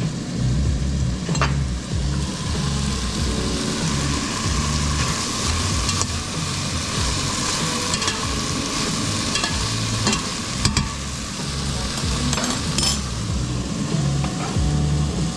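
Food sizzling in a hot frying pan while it is stirred, with a few sharp clicks of a utensil against the pan.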